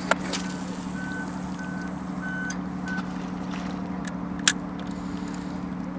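A steadily running engine, like a truck's, with its reversing alarm beeping at an even pace; the beeping stops about three seconds in. A sharp click comes near the end.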